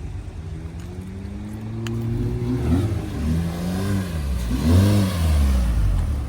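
Car engine revving in several rises and falls of pitch, loudest about five seconds in.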